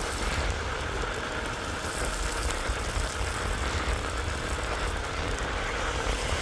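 Steady wind rumble on the microphone with wet-road tyre and rain hiss while riding an e-bike in the rain.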